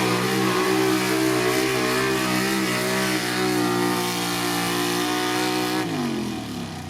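Gasoline-engined pro street pulling truck running flat out under load as it drags the sled, its note held high and nearly steady. Near the end the throttle lifts and the engine winds down in pitch.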